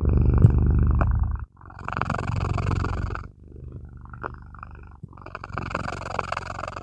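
Domestic cat purring right against the microphone, in long alternating louder and quieter phases as it breathes out and in, four phases in all.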